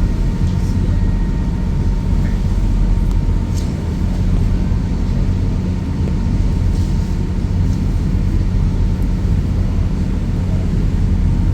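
Tour boat's engine running with a steady low drone, heard on board.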